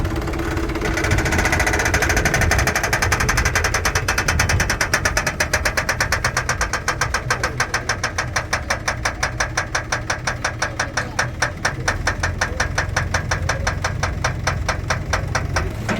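Diesel engine running with a steady low rumble. A high whine comes in about a second in, then gives way to a regular knocking beat of about five strokes a second that carries on to the end.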